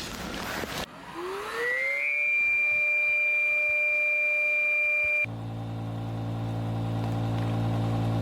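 Electric air pump inflating an inflatable tent: about a second in its motor spins up with a rising whine, then holds a steady high whine. A little after five seconds the sound switches suddenly to a lower, fuller steady hum that slowly grows louder. Rustling noise comes before the motor starts.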